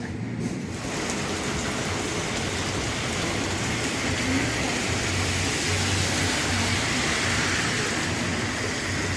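Steady rain falling, an even hiss that comes in about a second in and holds.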